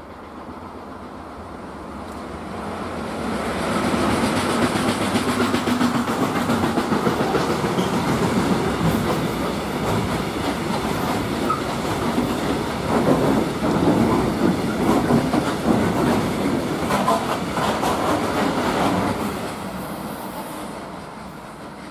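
Freight train hauled by an electric locomotive passing close by, its wagon wheels clattering over the rail joints in a quick regular rhythm. The sound builds over the first few seconds and fades away near the end as the train moves off.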